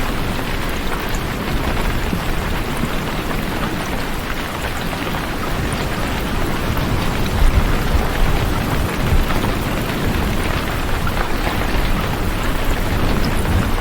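Steady, dense rainfall, with low rumbling swells about halfway through and again near the end.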